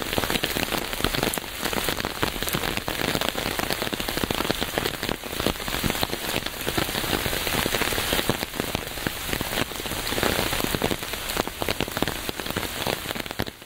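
Steady rain falling on a hard surface: a dense, even hiss full of many individual drop hits.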